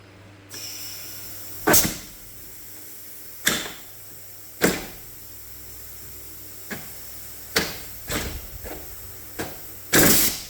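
Compressed air hissing through a home-built, 3D-printed inline-two air engine, broken by irregular sharp puffs and knocks, about ten of them, with a loud double one near the end. The uneven spacing means the engine is not yet turning over steadily.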